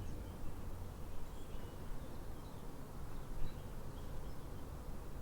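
Quiet outdoor ambience: a steady low rumble with a few faint, scattered high chirps.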